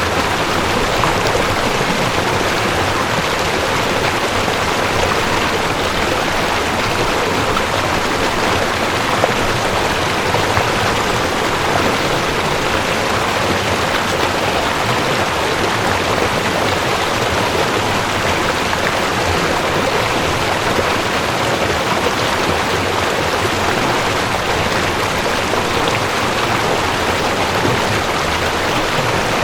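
Mountain stream rushing over rocks, a steady, even water noise without pauses.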